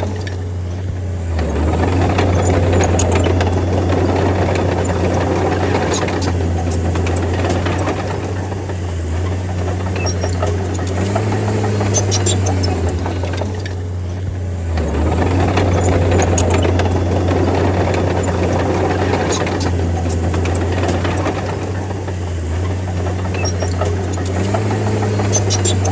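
D30 bulldozer's diesel engine running under varying load, its note dipping briefly every several seconds. Twice it turns louder and noisier for a few seconds as it works, with scattered metallic clicks throughout.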